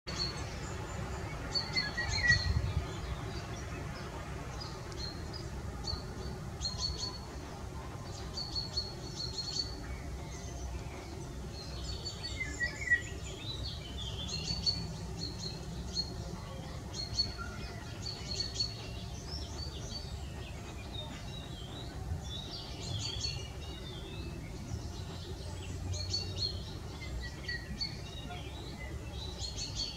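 Small songbirds chirping and singing: short high notes repeated over and over, with a few lower twittering phrases, over a low steady rumble.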